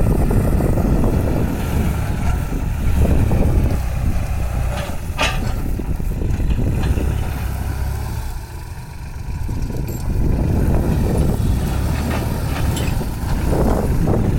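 Kubota farm tractor's diesel engine running steadily while working a field. There is a brief high squeal about five seconds in, and the engine sound dips for a moment past the middle.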